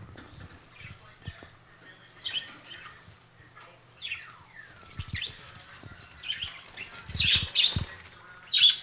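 Pet budgerigars chirping in short calls, some sliding down in pitch, busier and louder near the end, with scattered rustles and soft thumps among them.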